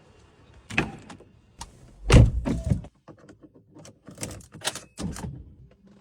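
Porsche 911 Turbo (997.1) being unlocked and its door opened: a click, then a heavy thunk about two seconds in, then several lighter clicks and taps.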